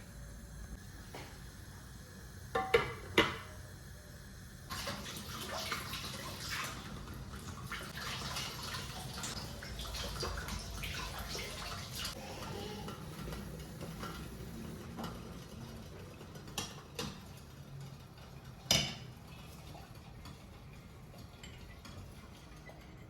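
Kitchen work: dishes clink twice, then water runs and splashes for about eight seconds amid small clatters. One sharp clink comes near the end.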